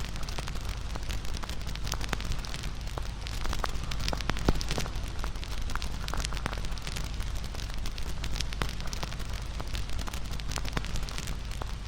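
Wood fire (bonfire) crackling steadily, with many small sharp pops and a louder pop about four and a half seconds in.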